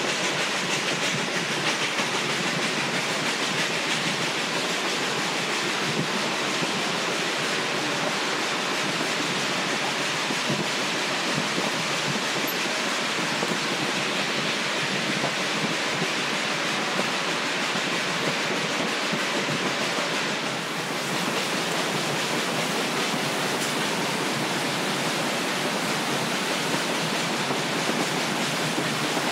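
Steady, even rushing noise of a narrow-gauge train in motion, heard from on board, with a brief dip about two-thirds of the way through.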